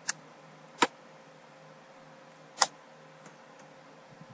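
Three sharp, unevenly spaced clicks at a computer, over a faint steady hum.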